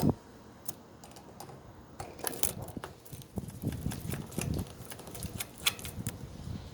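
Budgies moving about in their cage: irregular small clicks, taps and scratching, with a sharp thump right at the start.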